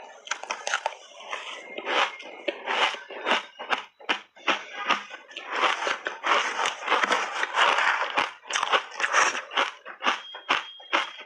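Close-up crunching and chewing of shaved ice coated in milk powder: a quick run of crisp crunches that thickens into dense, almost continuous crunching in the middle.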